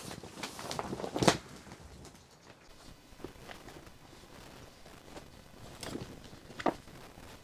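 Scattered knocks and taps, as of handling gear or footsteps, with a sharp loud knock about a second in and another near the end.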